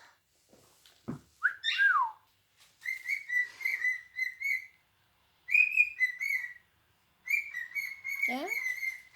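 Cockatiel whistling: a rising-then-falling whistle, then three quick runs of short whistled notes held near one pitch, with a second of pause between runs.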